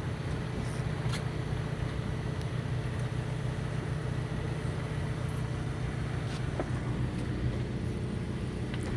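A fishing boat's engine running with a steady low hum, with a couple of faint knocks on board.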